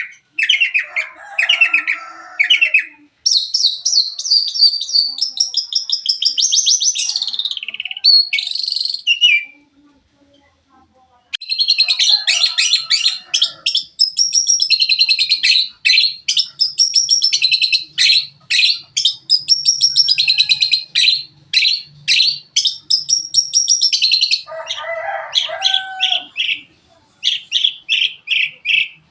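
Long-tailed shrike (cendet) singing a fast, varied song of high chirps and trills that is filled with mimicked phrases of other songbirds, with a short pause about ten seconds in.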